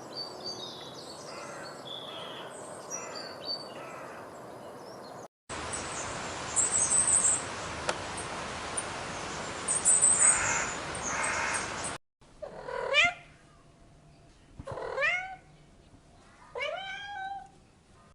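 Domestic cat meowing three times, each meow rising then falling in pitch, in the last third. Before it come two clips of background hiss with scattered high chirps, the louder of them with bursts of chirping.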